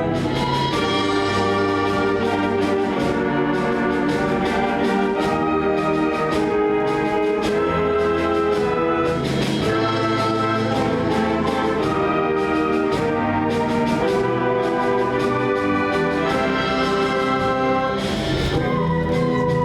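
High school concert band playing live, brass to the fore, in full sustained chords over a steady beat.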